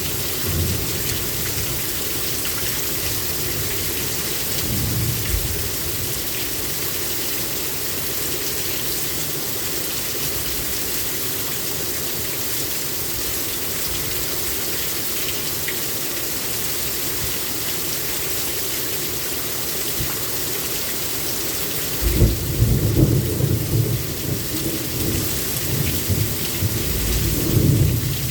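Heavy rain pouring steadily in a thunderstorm. A long rumble of thunder starts about three-quarters of the way through and rolls on for several seconds, with a fainter rumble earlier.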